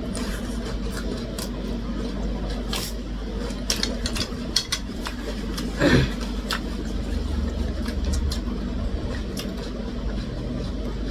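Close-miked eating sounds: scattered short clicks of chewing, mouth and utensils over a steady low hum, with one louder burst about six seconds in.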